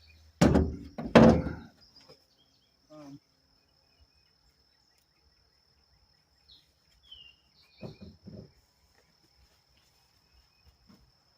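Two loud bangs in quick succession, about half a second and a second in, then a few faint knocks. A steady high-pitched insect drone, likely crickets, runs underneath.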